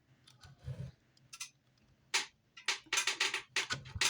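Jeweler's saw cutting the metal buckle blank by hand: a few light ticks, then a quick run of short rasping saw strokes from about two seconds in.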